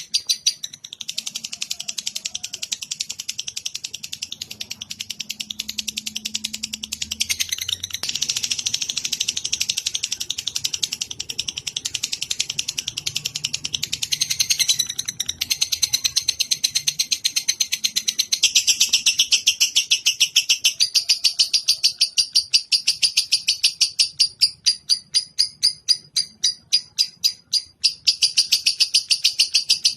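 A bird calling in a long, fast, unbroken run of repeated high chattering notes. It breaks off briefly about halfway through and grows louder in the second half.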